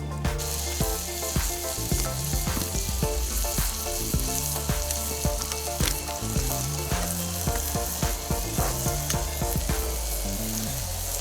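Eggs, sliced tomatoes and salo (pork fat) frying in a pan over a campfire: a steady sizzle with many small sharp pops.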